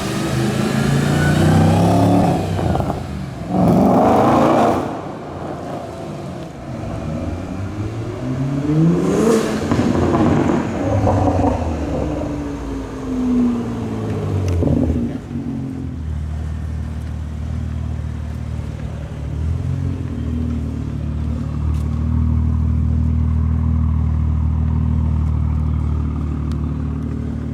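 Performance car engines revving and accelerating, their pitch rising and falling, with a car passing in the middle. From about halfway through, a single steady engine note.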